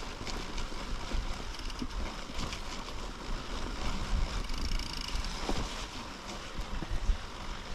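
Mountain bike rolling fast down a snowy trail: steady tyre noise with small knocks and rattles from the bike, and wind rumbling on the microphone.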